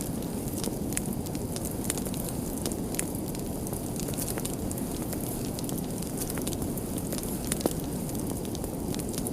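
Wood fire burning with a steady low rush and scattered sharp crackles and pops, one louder pop near the end.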